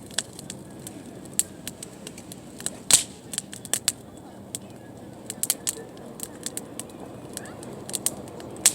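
Wood campfire crackling, with irregular sharp pops and snaps; the loudest pop comes about three seconds in, and another just before the end.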